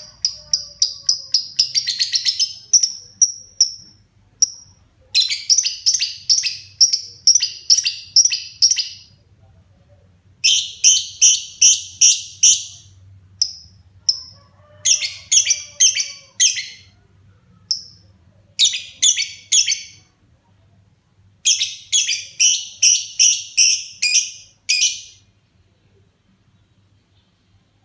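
Pet lovebird singing: bursts of rapid, shrill, high chirps, each run lasting a few seconds, broken by short pauses. The bird is in full song.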